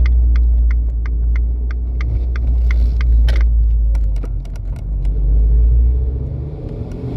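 Abarth 595C Turismo's 1.4-litre turbo four-cylinder through a Record Monza exhaust, rumbling deeply at low revs just after a downshift. A quick string of sharp crackles runs over the rumble for about the first four seconds, then thins out.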